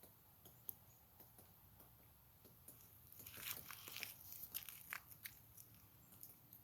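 Faint, irregular tapping and pecking clicks, busiest from about three to five seconds in: a woodpecker foraging on tree bark for insects.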